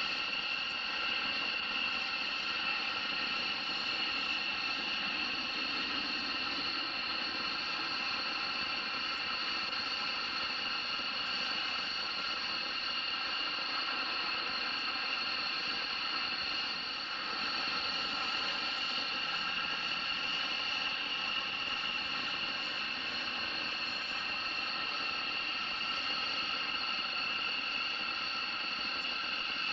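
Aircraft turbine engines running with a steady high whine, several pitches held together, dipping slightly about halfway through.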